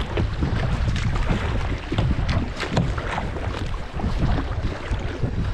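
Wind buffeting the microphone, with water splashing irregularly around a kayak on a river.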